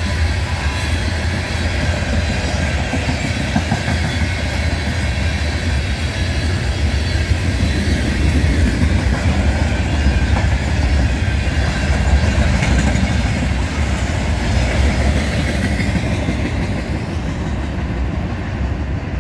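Freight cars of a passing train rolling by on the rails, a steady rumble that thins out near the end as the last cars go past.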